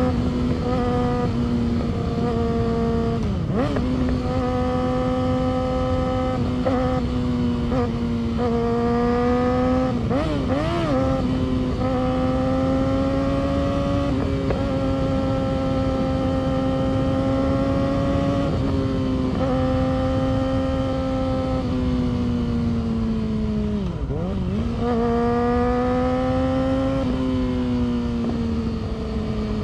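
Yamaha R6's 600 cc inline-four engine and exhaust running at a steady, high-pitched cruise, the note stepping slightly up and down a few times with the throttle and easing lower near the end.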